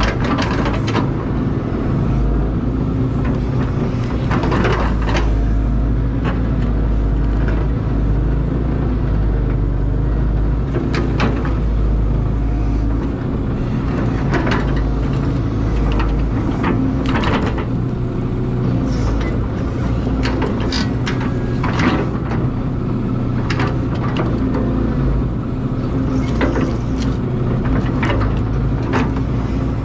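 Caterpillar excavator's diesel engine running steadily, with frequent short knocks and clanks throughout as it works.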